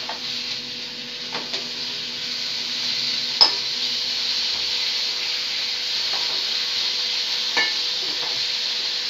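Shallots, garlic and chopped tomatoes sizzling steadily in hot oil in a kadai while being stirred with a spatula. The spatula scrapes and knocks against the pan a few times, sharpest about three and a half seconds in.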